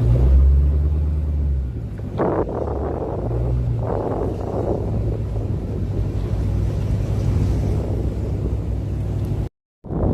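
Low, steady rumble of a car engine cruising, heaviest in the first second or two, with the sound cutting out for an instant near the end.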